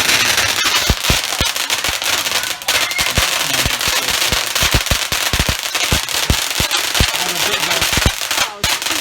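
Fireworks going off: a dense crackling hiss with many sharp pops, several a second.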